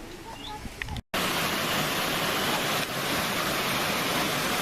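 Quiet outdoor ambience with a few short bird chirps, then after a sudden cut a loud, steady rushing of falling water.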